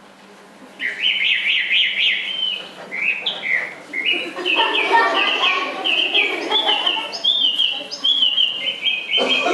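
Birds chirping and twittering in quick, high-pitched trills, starting about a second in and running on without a break.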